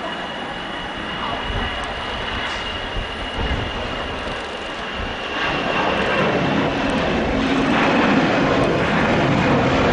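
Jet airliner engines: a steady high whine over a rushing noise that grows louder about halfway through as the aircraft draws nearer.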